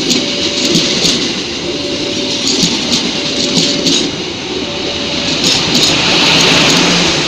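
A diesel-hauled passenger train rolls past at a level crossing, its wheels clattering and clicking over the rail joints. A short electronic warning tone repeats about every second and a half, the crossing's alarm signal.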